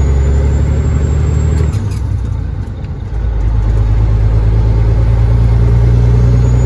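Cab-interior drone of a Freightliner FLD120's Caterpillar 3406E diesel engine pulling down the highway. Its note drops about a second and a half in and eases off briefly, then settles back into a steady drone.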